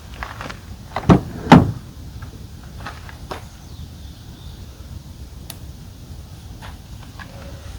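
Two dull, heavy thumps about half a second apart, about a second in, then a few faint scattered clicks and knocks. These are the sounds of gear being handled on a pickup truck while a rooftop tent is packed up.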